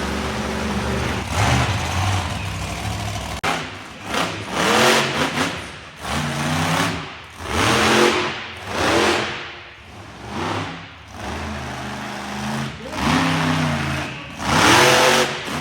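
Monster truck engine running steadily at first, then revved hard in a series of short blips, each rising and falling, about one every second or two.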